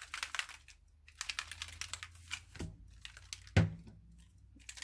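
Rustling and crinkling with quick light clicks of craft supplies being handled on a work table, broken by two knocks, the second, about three and a half seconds in, the louder.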